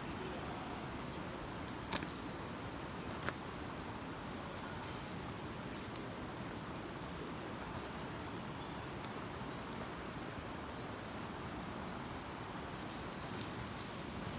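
Wood campfire crackling, with a few sharp pops about two seconds in, a second later, and near the end, over a steady background rush.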